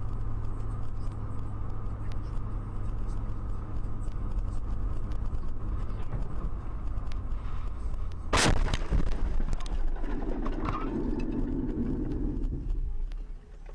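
Steady road and engine rumble of a car driving, then a car crash about eight seconds in: one loud bang of impact, followed by a few smaller knocks and scraping noise.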